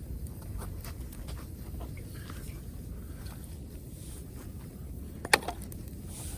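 Wood campfire crackling, with scattered small pops and one sharp pop about five seconds in, over a low steady rumble.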